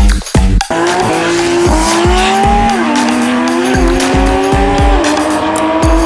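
Two cars' engines accelerating hard at full throttle, one climbing through its gears with a drop in pitch at each upshift about 2.5, 4 and 5 seconds in, the other rising steadily. An electronic dance music beat plays with them.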